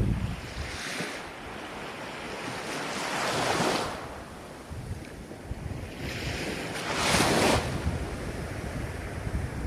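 Ocean waves washing in a continuous rush, with two waves swelling up and breaking, about three and a half and seven seconds in. Wind rumbles on the microphone underneath.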